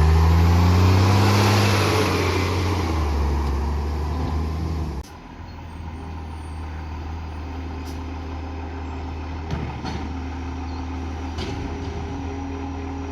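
Old garbage truck's diesel engine running with an exhaust leak. The engine note falls over the first few seconds, the sound drops off sharply about five seconds in, and a quieter steady running follows with a few faint clicks.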